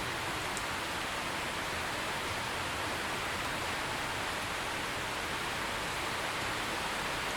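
Steady rain falling: an even hiss, strongest in the upper-middle range, with no thunder.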